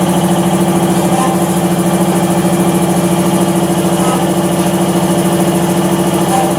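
Herforder Diesel DNS, a large horizontal single-cylinder stationary diesel engine with a big flywheel, running at a steady speed with a loud, even hum.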